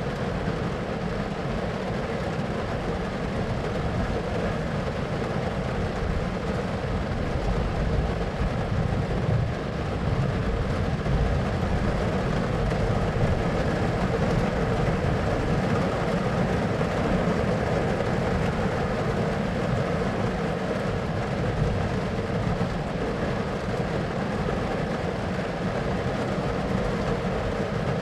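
Thunderstorm ambience: a continuous, even noise of rain and storm, heaviest in the low rumble, with no sharp thunder claps.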